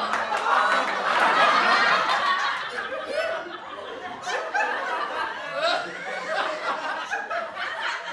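A group of people laughing together, many voices overlapping, loudest in the first couple of seconds and easing into scattered chuckles.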